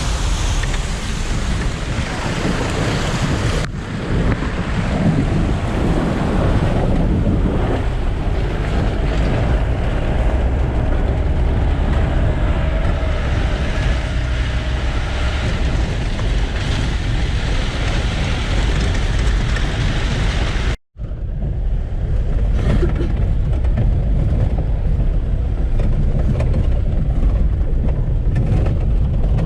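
Jeep running along a rough dirt road, its engine and the rattle of the ride blended with wind buffeting the microphone. The sound drops out for an instant about 21 seconds in.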